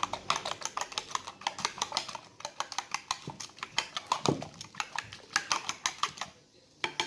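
Spoon beating eggs in a bowl: a rapid run of small clicks and taps against the bowl that stops about six seconds in.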